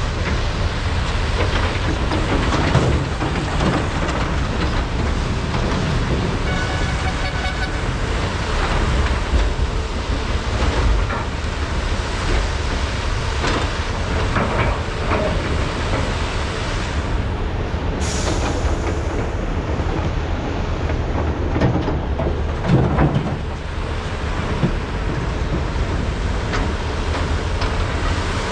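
Large hydraulic mining excavators' diesel engines running steadily under load while loading trucks, with scattered clanks and knocks of buckets and rock throughout.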